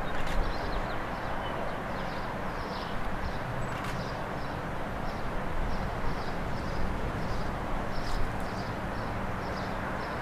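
Outdoor street ambience: a steady rushing background noise with a run of short high chirps, two or three a second, and a few sharp clicks.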